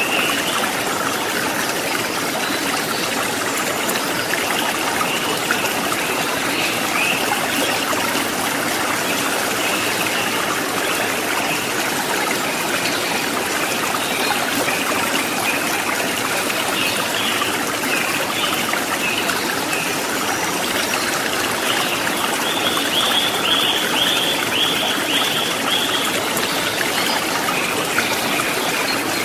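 Stream water trickling and splashing steadily. A high, rapidly repeated chirping sounds over it for a few seconds near the end.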